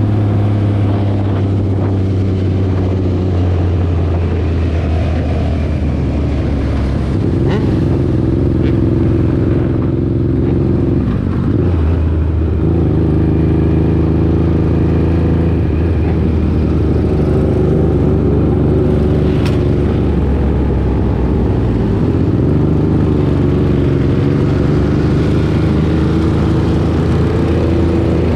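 Motorcycle engines running loudly and steadily, their pitch stepping up and down several times.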